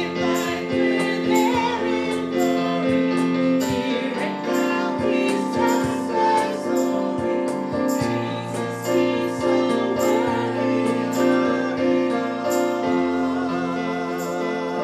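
Congregational worship singing with female voices leading over instrumental accompaniment, with a steady beat.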